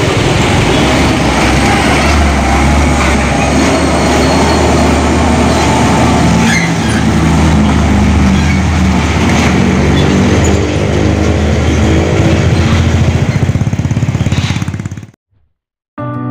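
Heavy diesel truck engine running loud and low under load, its engine note shifting in pitch over the middle seconds. The sound fades out quickly near the end, and music begins right at the end.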